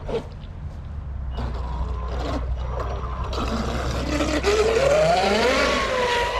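Traxxas RC boat's electric motor spinning up: a whine rising in pitch over about a second, then holding steady, over a hiss of water spray that builds in the second half.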